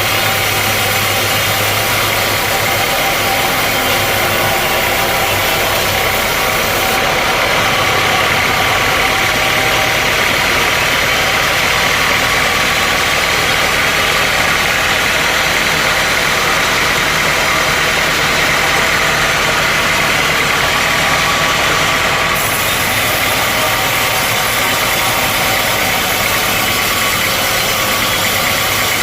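Sawmill machinery running steadily: a loud, continuous mechanical noise. From about 7 to 22 seconds in, the sound changes a little, its highest part dropping away.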